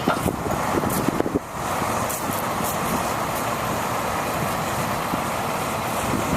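A 2002 International mechanics truck running: a steady engine drone, with a few short knocks in the first second and a half.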